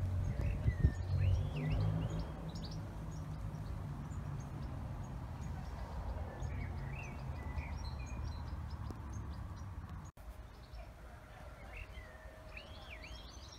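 A songbird singing a short chirping phrase three times, about five seconds apart, over a low background rumble that drops away at a cut about ten seconds in.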